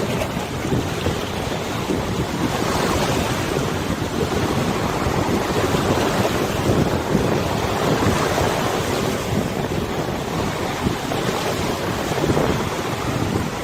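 River water washing in a steady rush, with wind blowing across the microphone.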